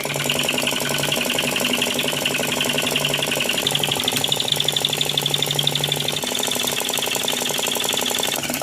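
Engine running steadily at speed, a fast even rapid firing beat with a low hum underneath.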